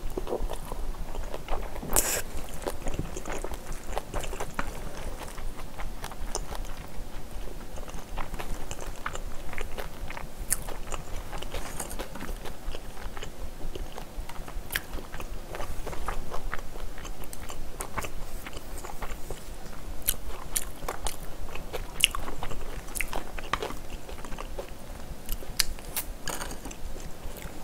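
Close-miked chewing and biting of rice mixed with spicy stir-fried pork, a steady run of small wet mouth clicks and smacks.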